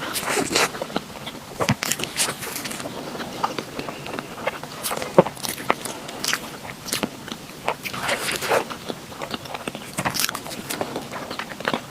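A person chewing and biting food close to the microphone: many irregular mouth clicks and small smacking sounds throughout.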